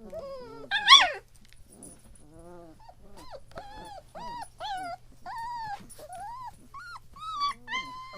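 Three-week-old German Shepherd puppies whimpering and crying: a stream of short, high-pitched cries that rise and fall one after another, with one louder yelp about a second in.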